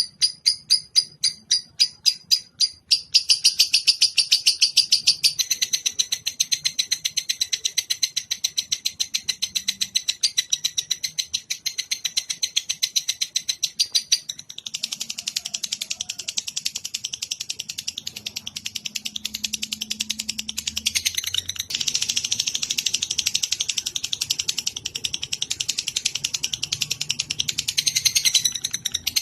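Recorded songbird call used for song training: quick repeated high chips for about the first three seconds, then a long, dense, rapid trill that shifts in tone several times.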